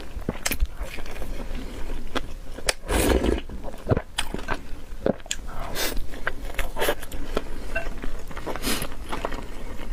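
Someone eating crunchy food: crisp, irregular bites and chewing, with a louder crunch about three seconds in and again near the end.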